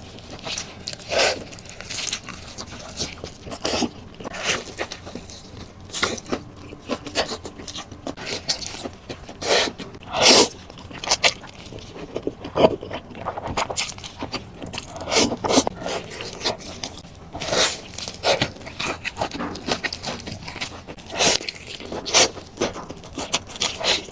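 Close-up eating sounds from a mukbang of noodles and meat: chewing and mouth noises in short, irregular bursts, about one or two a second.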